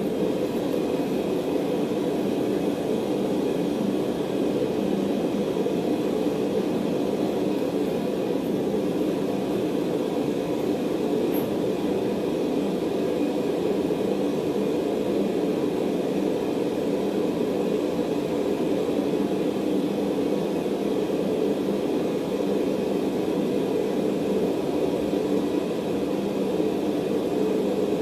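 A blacksmith's forge running steadily, with a constant drone and no hammer strikes while the steel heats.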